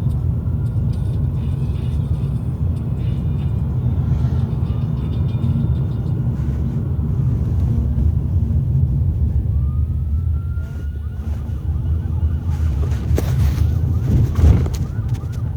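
Steady low rumble of street traffic, with a distant ambulance siren faintly wailing behind it; its rising wail is clearest about ten seconds in. A few sharp noises near the end.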